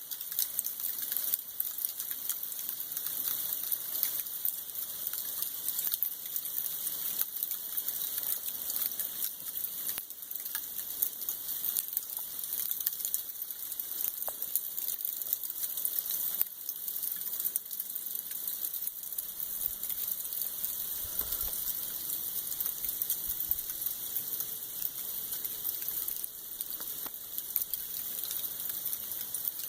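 Freezing rain falling steadily: a high, even hiss dense with fine ticks of drops striking surfaces.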